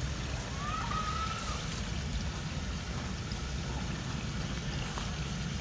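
Outdoor background noise: a steady low rumble with a light hiss, with one faint short rising whistle about half a second in.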